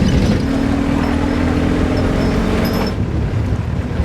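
A vehicle engine running steadily under a loud low rumble, with a steady hum that fades about three seconds in.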